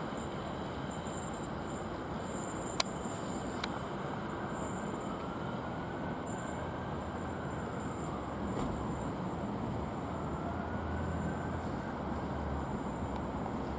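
Freight train wagons rolling steadily past on the rails. A faint wheel squeal rises and falls twice, and there are a couple of sharp clicks in the first few seconds.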